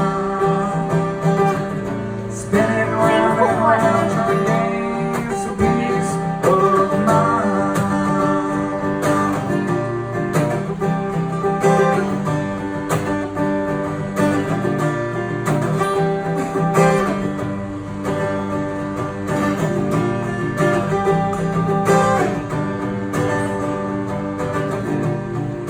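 Acoustic guitar strummed through an instrumental break of a live song, with some wordless singing at times.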